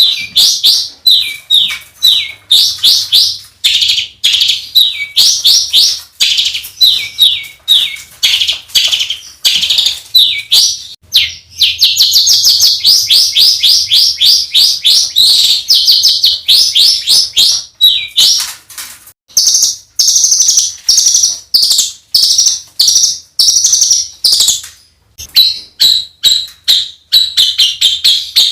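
A songbird singing harsh, rapid-fire phrases: long runs of quick, sharp, high notes, many a second, broken by short pauses. It is the rough 'tembakan' style of song used as training audio for competition songbirds.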